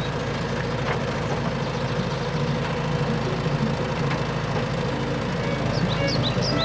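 A heavy vehicle engine idling steadily with a low rumble. Near the end, a quick series of short high chirps like a small bird.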